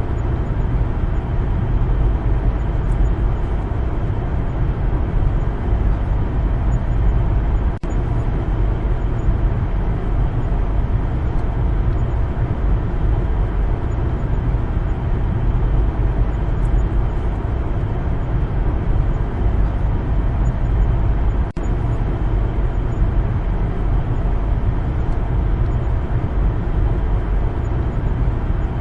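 Steady road noise of a car driving: a constant low rumble of tyres and engine with a faint hum above it, broken for an instant twice by brief dropouts.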